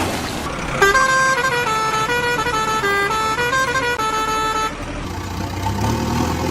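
A musical horn tune: a run of stepped electronic notes, about four a second, playing for about four seconds over a steady engine-like noise.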